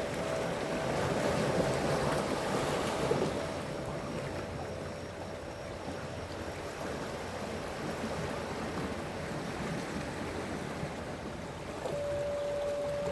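Sea waves washing on the shore as a steady rush. Two soft held tones fade out in the first half, and a new held tone starts near the end.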